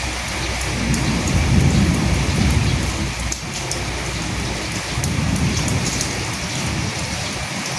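Steady rain falling, with a low rumble of thunder that swells about a second in and again about five seconds in.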